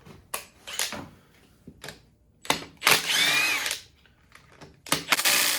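Clicks and knocks of tools and engine parts being handled, with a loud rasping, squeaky burst about a second long near the middle and another short loud burst near the end.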